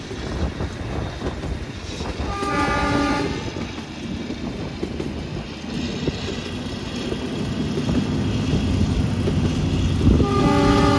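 Narrow-gauge toy train running on the Kangra Valley line with a steady rumble of wheels and wagons. The locomotive's horn sounds for about a second near the start and again near the end.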